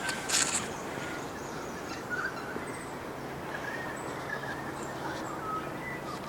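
Wild birds giving short, faint calls now and then over a steady outdoor background, with a brief rustling noise about half a second in.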